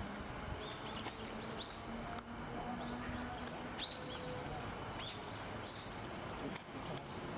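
Small bird giving short, high, thin calls, repeated at irregular intervals about a second apart.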